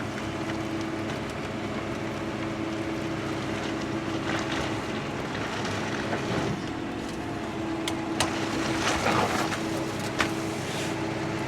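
Truck-mounted crane running steadily during a lift, a steady drone with a held hum. A few sharp knocks come near the end.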